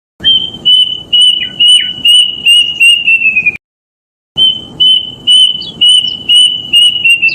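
Kedasih cuckoo song played as a lure recording: two phrases of about eight clear whistled notes each, steady in pitch and then slightly falling and quickening at the end of each phrase, with a short pause between the phrases.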